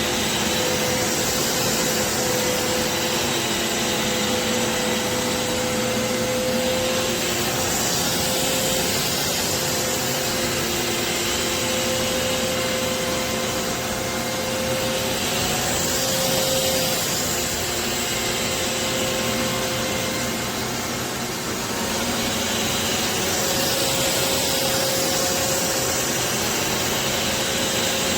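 BISSELL Revolution HydroSteam Pet carpet cleaner running, a steady motor whine over the rush of its suction. The rush swells and eases slightly every few seconds.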